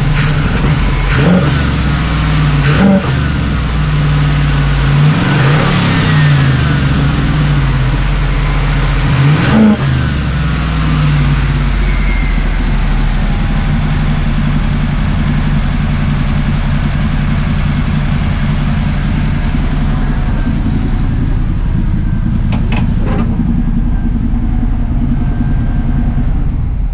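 1979 Camaro Z28's small-block V8, with a freshly rebuilt Quadrajet four-barrel carburetor, revved in four quick blips around the first ten seconds, the 'quadrabog' of the Quadrajet. It then settles into a steady idle that is still a little high.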